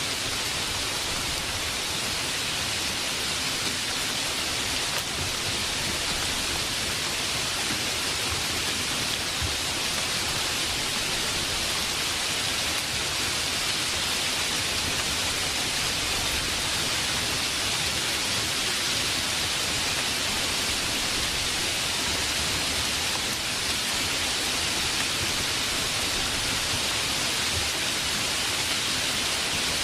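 Steady heavy rain, an even hiss of falling drops that holds at one level throughout.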